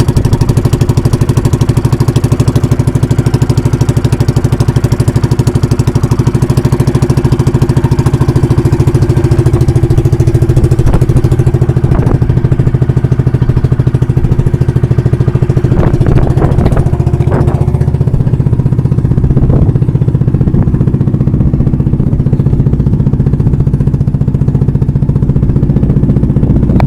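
Small pump-boat (banka) engine running steadily just after being started, with a rapid, even firing beat.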